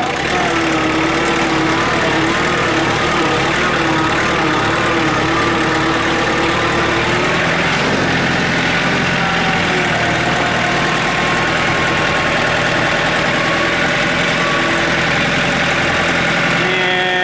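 A John Deere compact tractor loader backhoe's diesel engine running steadily while the loader bucket is raised and levelled. A wavering whine rides over the engine for the first several seconds, and a fainter one follows later.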